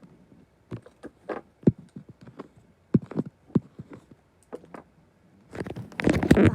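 Irregular clicks and knocks, growing into a loud, dense run of knocking and rustling near the end.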